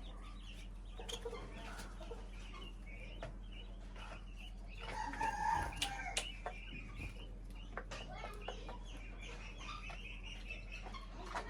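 Small birds chirping and calling, with scattered sharp clicks. A louder, longer pitched call comes about five seconds in.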